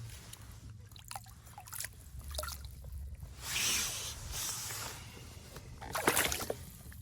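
Lake water sloshing and splashing, with wind rumbling on the microphone and small knocks; two louder splashing stretches come about three and a half and six seconds in.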